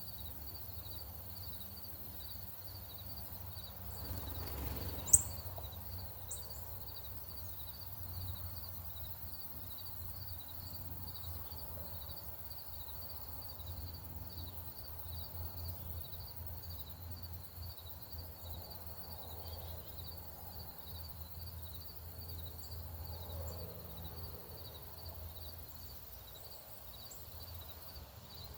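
Outdoor ambience with an insect chirping in a steady high-pitched pulse about twice a second, over a low steady rumble. About five seconds in, a single sharp high bird chirp with a click stands out as the loudest moment.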